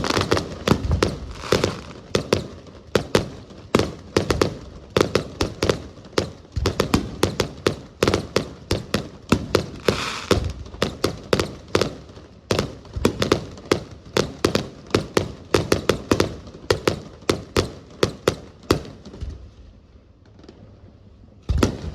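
Aerial fireworks bursting in a dense barrage, several sharp bangs a second. The barrage thins out near the end, followed by one more loud bang.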